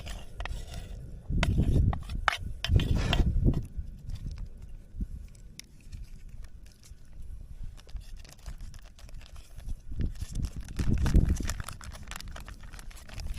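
Small wood fire in a compact camping fire stand crackling with scattered sharp pops, joined by a few swelling low rumbles.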